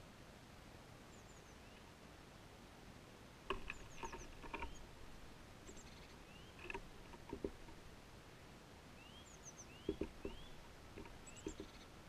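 Small garden birds giving faint, short high chirps and quick rising calls on and off, with a few sharp taps and knocks, the loudest sounds, clustered about four seconds in and again around ten seconds.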